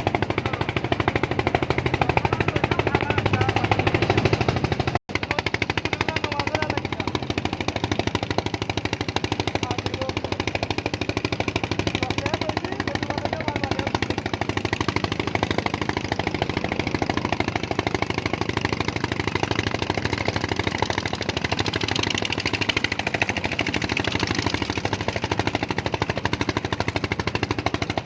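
An engine running steadily with a rapid, even chugging beat. The sound drops out for an instant about five seconds in.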